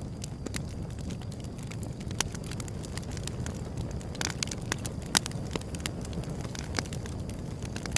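Wood fire burning with a steady low rumble and irregular crackles and pops, a few sharper pops standing out, loudest about five seconds in.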